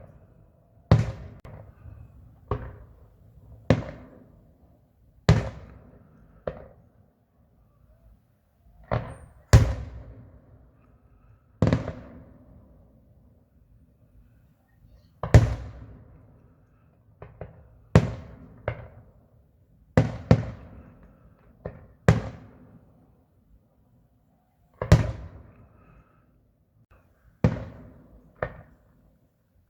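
Fireworks shells bursting one after another, a sharp bang every second or two with a few quick doubles and a short lull midway. Each bang trails off in a rumbling echo.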